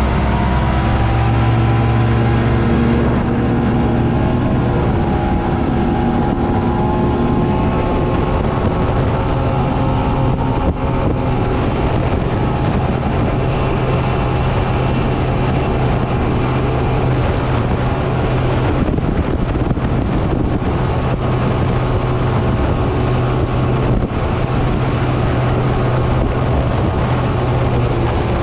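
Motorboat engine running under way at a steady speed, its pitch shifting in the first few seconds and then holding even, with wind buffeting the microphone.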